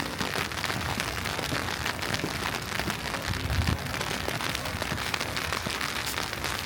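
Steady hiss and fine patter of wet snow falling at about freezing, with a brief low rumble about three and a half seconds in.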